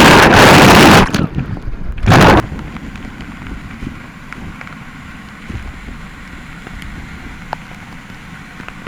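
Rushing water close to the microphone, loud enough to overload it for about the first second and again briefly about two seconds in, then settling to the steady rush of the waterfall with a few faint clicks.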